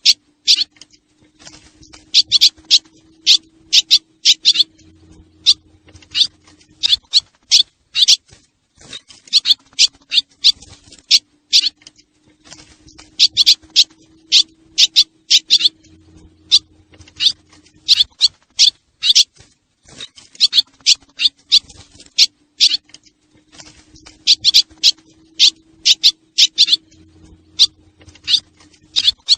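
Swallows calling in rapid, sharp chirping runs, in groups that repeat about every eleven seconds, over a faint steady low hum.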